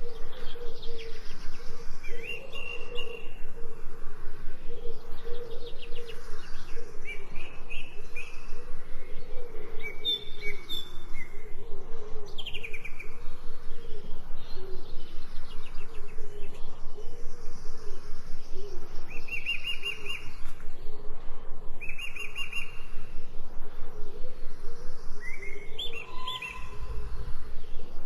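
Songbirds singing in short chirping phrases, repeated every second or two over a steady, rapidly pulsing background.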